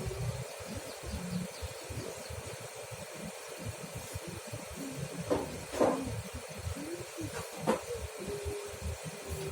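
Daihatsu Taruna engine idling during a morning cold warm-up, heard as an uneven low puffing from the exhaust with a hiss of exhaust gas. There are a few brief clicks in the second half.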